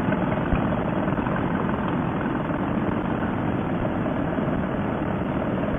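Steady vehicle running noise on the road, an unbroken rumble of engine and wind without changes in pitch.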